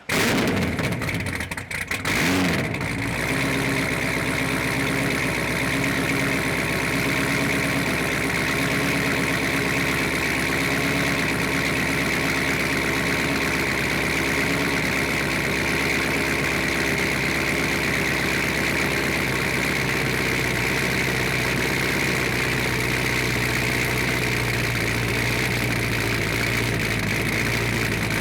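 Cammed Corvette C6 Z06's 7.0-litre LS7 V8 cold-starting through Kooks long-tube headers and a 3-inch catted X-pipe. It catches suddenly, flares up briefly about two seconds in, then settles into a steady idle.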